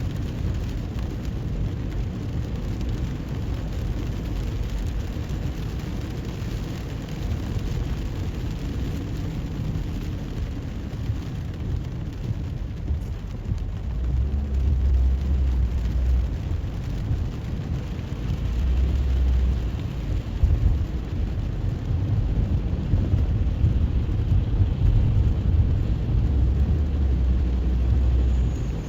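A car driving on wet roads in the rain: a steady low rumble of tyres and engine under an even rain hiss. From about halfway the rumble gets louder, swelling several times.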